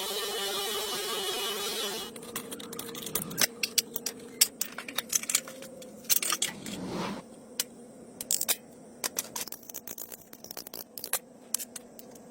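Irregular metallic clicks and knocks of hand work on a car engine, with a brief scrape about seven seconds in, after a couple of seconds of steady noise at the start.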